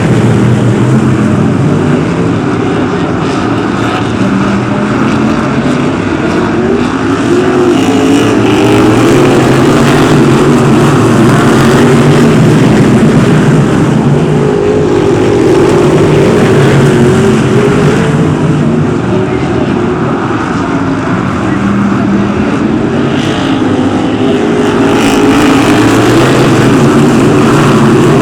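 BriSCA F1 stock cars racing, several big V8 engines running together at full noise, their pitch rising and falling as the cars accelerate and lift around the track.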